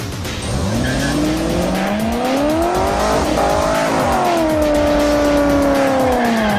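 Chevrolet Corvette V8 revving up over about three seconds, then held high and steady while the rear tyres spin in a burnout, with the rushing noise of the tyres underneath.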